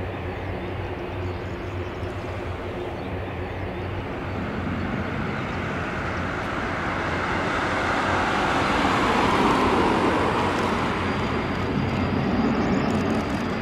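Transall C-160's two Rolls-Royce Tyne turboprops and propellers droning on the landing approach. The drone grows louder toward its peak about two-thirds of the way through, and a thin high whine joins near the end.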